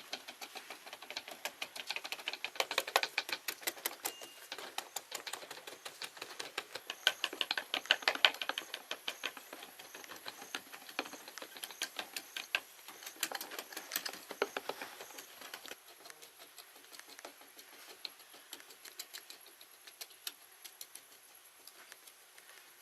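Rapid, irregular small clicks and taps, like many light hard knocks, thickest around two to three and seven to eight seconds in and thinning out after about sixteen seconds. A faint steady high hiss runs under them.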